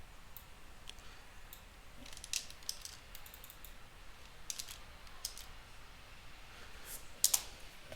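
Computer keyboard keystrokes and clicks, sparse and light, coming in a few short clusters spread across the seconds.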